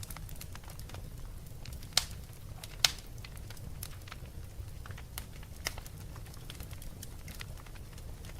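Wood fire crackling: irregular small pops and snaps over a low steady rumble, with two louder pops about two and three seconds in.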